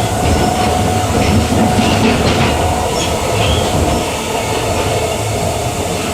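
Queensland Rail EMU electric suburban train running along the track, heard from inside the carriage: a steady rumble of wheels on rail with a steady hum-like tone that fades about four seconds in, and a few faint high squeaks.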